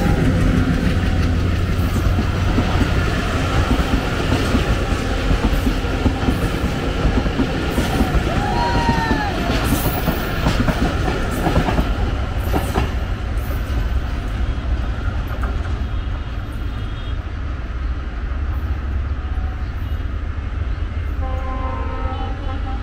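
Passenger train coaches running past close by: a steady rumble of wheels on the rails with clicking over the rail joints, easing slightly as the last coach draws away. A couple of short whistle-like glides sound about eight to nine seconds in.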